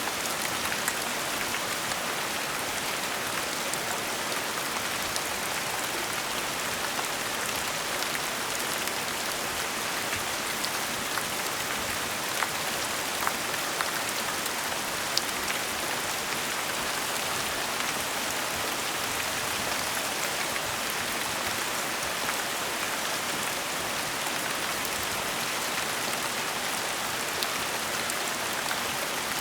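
Gentle steady rain falling, a continuous even hiss with scattered individual drops ticking.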